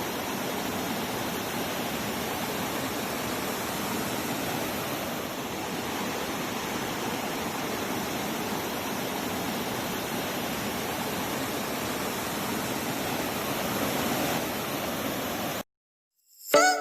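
Waterfall rushing steadily, an even wash of falling water that cuts off abruptly near the end.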